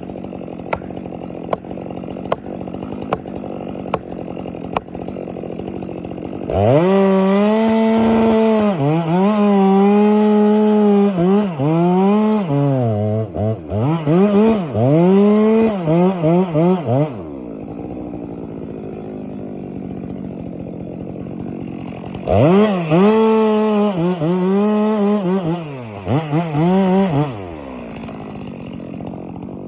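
Two-stroke chainsaw idling with regular ticks, then run at full throttle cutting into a pine trunk for about ten seconds, the revs dropping and picking up again several times under load. It falls back to idle, then makes a second, shorter cut of about five seconds before idling again.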